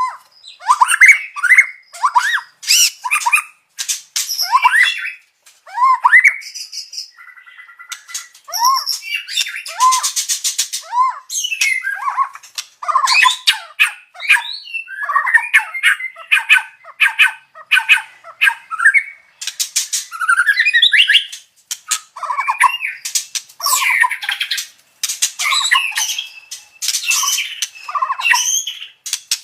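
White-rumped shama singing a loud, varied song of quick whistled phrases, buzzy notes and fast rattling trills, with barely a pause. A very rapid rattling trill comes about ten seconds in.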